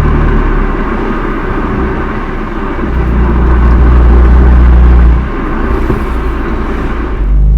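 Exhaust note of a BMW M2 Competition's twin-turbo inline-six through its stock muffler, a deep drone that swells and falls with the throttle: loudest about four to five seconds in, dropping off suddenly just after, then rising again near the end. The recording is slightly distorted from overloading the microphone.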